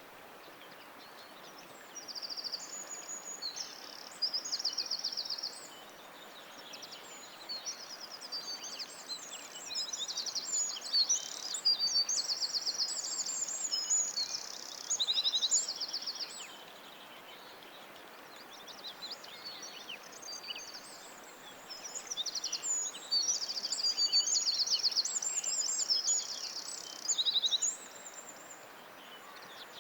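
Several songbirds singing together in woodland: many short, high trills and chirps overlapping, thickest in two long runs with brief lulls between. A faint steady background hiss lies under the song.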